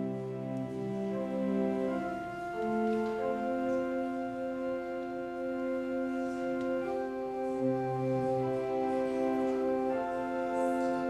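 Organ music: slow, sustained chords held without decay, moving to a new chord every second or two, with a low bass note coming and going.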